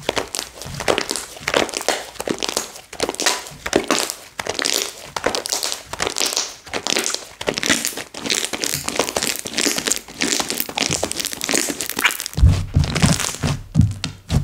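Slime being squished and worked by hand, a dense run of sticky crackling and popping clicks, giving way about twelve seconds in to low, dull thuds as the slime is pressed or slapped.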